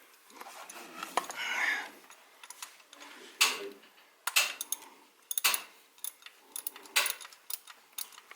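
Metal hand tools clicking and clinking, a socket wrench with a universal-joint socket being fitted and worked, with sharp irregular clicks every half second to a second or so.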